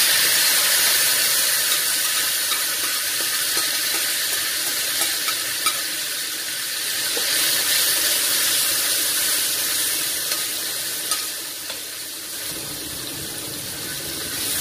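Ground spice paste sizzling as it fries in hot oil in a pan: a steady, dense hiss, easing a little near the end, with a few faint clicks. This is the paste just added to the heated oil.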